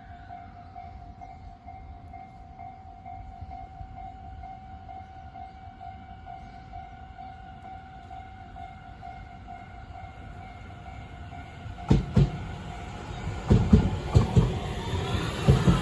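A Tobu Tojo Line train approaching and passing. A steady tone sounds over a low rumble, then about twelve seconds in the train arrives with sharp thumps, followed by rapid, loud clattering of its wheels that grows louder near the end.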